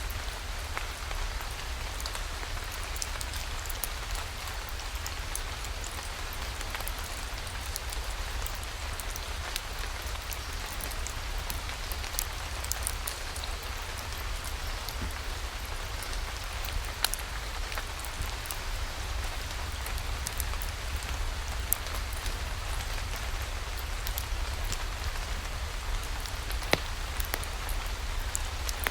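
Steady rainfall, an even hiss of rain with a low rumble underneath, dotted with scattered sharp ticks and drips.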